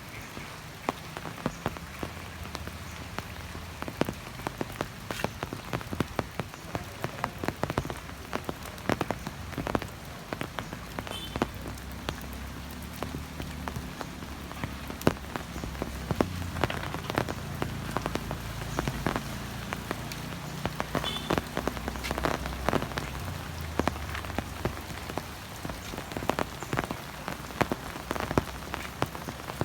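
Heavy rain falling steadily, with many sharp drop hits close by and a low rumble underneath.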